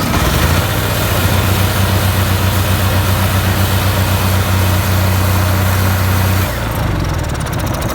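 Onan 4000 RV generator engine running steadily after being started. About six and a half seconds in, the steady running breaks off into a quieter, uneven coast-down. This fits a generator that runs only while its start button is held and shuts off when the button is let go.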